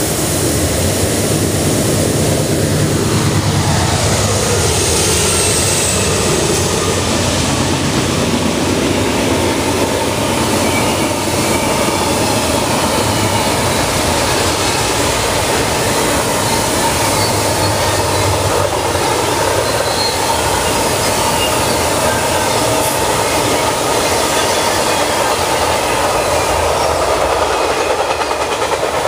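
Norfolk Southern intermodal freight train passing close by. Its three GE C40-9W (Dash 9) diesel locomotives drone through the first few seconds, the pitch falling as they go by. Then comes a steady, loud rumble and clatter of well cars carrying containers and trailers rolling past.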